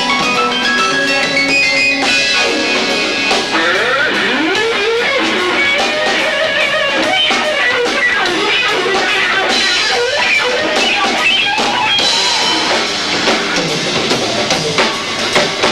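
Live rock band playing, recorded low-fi on a camcorder's built-in microphone. Electric guitar with bending, sliding notes runs over drums, and the drum hits grow sharper near the end.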